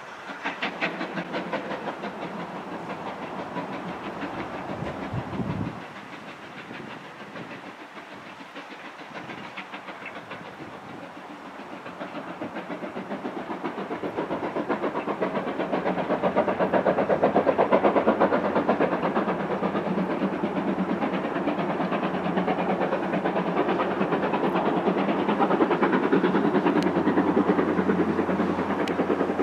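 Train running on the line, with a fast, even rhythmic clatter. It is loud at first, drops away after about six seconds, then builds up again to its loudest about halfway through and holds there.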